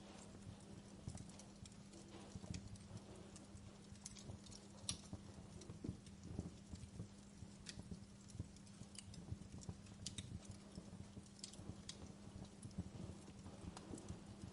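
Wood fire burning in a fireplace: faint, irregular crackles and sharp pops over a low rumble of flames, with a steady low hum underneath.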